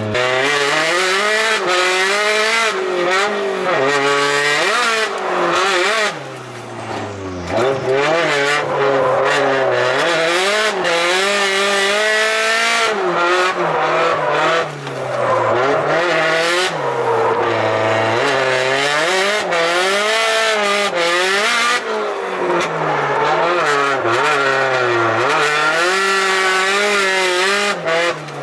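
Car engine being driven hard on a race track, revs climbing and falling again and again with gear changes, the loudness dipping briefly about six seconds in and again about halfway through.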